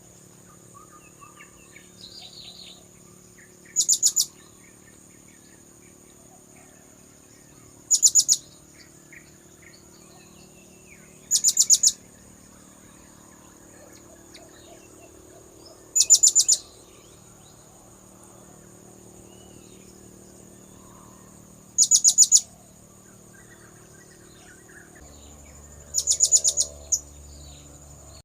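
Blue-crowned hanging parrot (serindit) lure call. Short, very high-pitched bursts of rapid notes repeat about every four seconds, six times, over a steady thin high tone.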